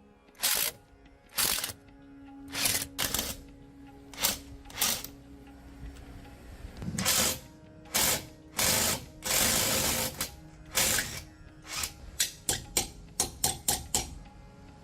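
Hand-tool work: a string of short, sharp scraping and clicking noises at irregular intervals, with a quick run of clicks near the end, over quiet background music.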